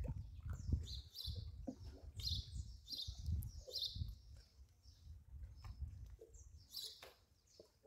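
Small birds chirping in short, repeated calls over a low, uneven rumble.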